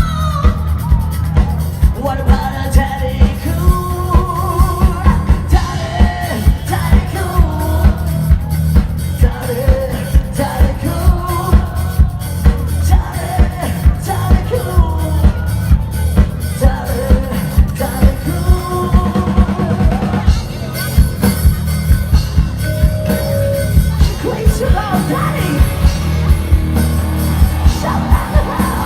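Live rock band playing with a lead singer over heavy bass and a drum kit beating steadily at about two hits a second.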